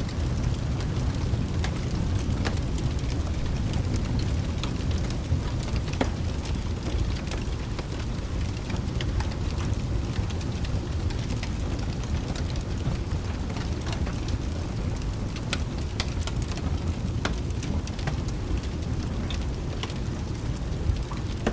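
Layered rain, thunder and fireplace ambience: a steady low rumble with rain hiss under it and scattered sharp crackles and pops of a wood fire.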